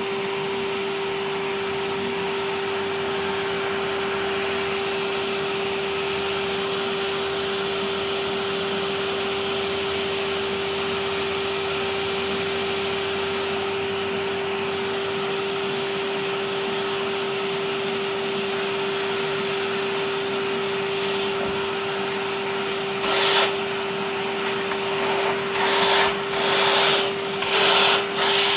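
Vacuum cleaner running steadily, its motor giving a constant whine over the rush of air. Near the end the sound swells in about five short, louder surges of rushing air.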